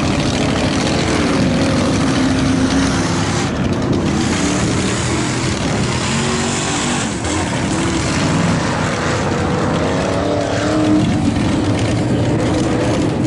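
V8 engine of a Blazer mega truck on V-Tread paddle tires running hard through a mud-bog water pit, its revs rising and falling, under a steady rushing noise.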